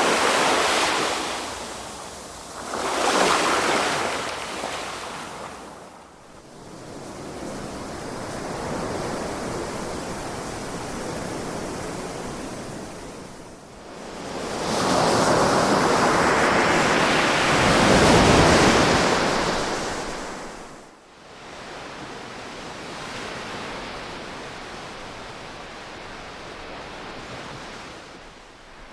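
Ocean waves breaking and washing in slow swells of surf, with no music. Two short waves come close together at the start, and the largest, longest wave swells and breaks about halfway through, with quieter wash between them.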